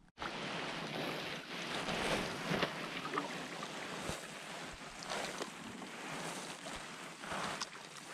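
Wind and open water, with wind buffeting the microphone and water splashing in irregular louder surges. It starts abruptly just after a cut.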